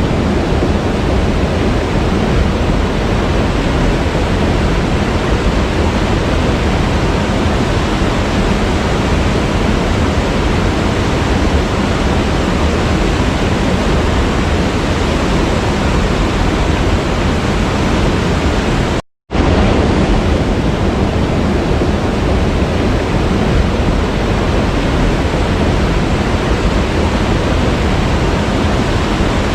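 Waterfall: a steady, dense rush of falling water. It cuts out for a split second about two-thirds of the way through, then carries on unchanged.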